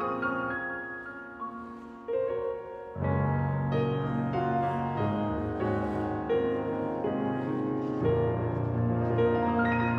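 Solo piano music playing, thinning out and growing quieter about a second in, then fuller chords with a deep bass line coming in at about three seconds.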